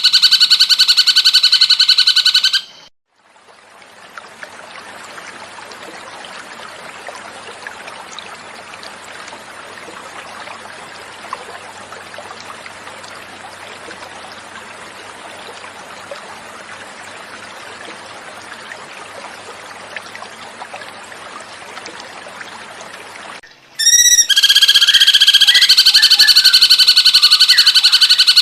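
Cucak cungkok bird song: a loud, rapid run of repeated notes for about two and a half seconds. It breaks off into about twenty seconds of gently flowing water, then the rapid song starts again near the end with a short rising run of notes.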